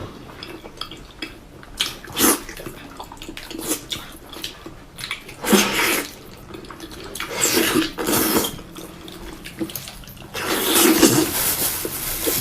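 Close-up wet eating sounds of someone chewing and sucking on pork trotter, coming in irregular loud bursts a second or two apart.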